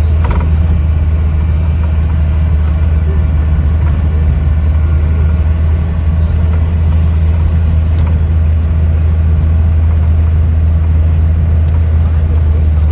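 Steady low drone of a motor vehicle's engine and road noise, running evenly throughout.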